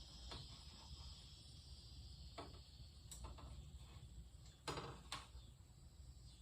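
Near silence with a few scattered light clicks and knocks, the loudest a little after the middle.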